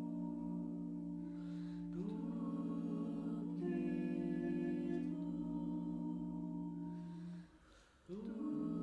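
A cappella choir holding wordless sustained chords, moving to new chords every couple of seconds. It breaks off briefly near the end, then the voices come back in.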